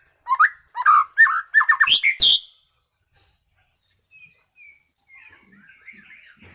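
White-rumped shama (muray medan) singing: a quick run of loud, rising whistled notes over the first couple of seconds, then a soft, quiet twittering warble in the second half.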